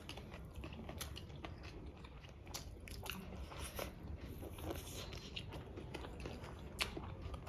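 Close-up chewing and biting of food, a run of small wet clicks and crunches with one sharper click a little before the end.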